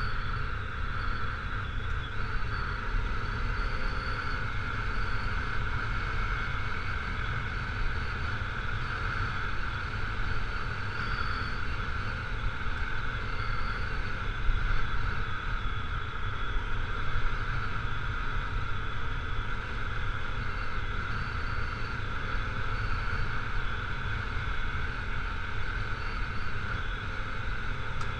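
Honda CRF250L's single-cylinder four-stroke engine running at a steady cruise while riding a gravel road, with a constant low rumble of wind on the microphone.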